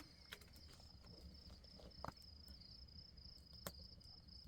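Crickets trilling steadily and faintly, with a couple of short clicks partway through.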